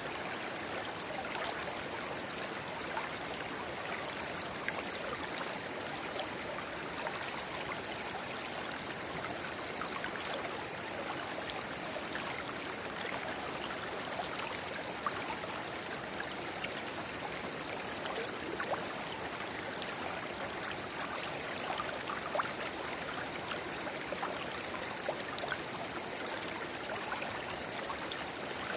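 A shallow river babbling steadily where a small spring-fed stream pours into it, with scattered small splashes and plinks.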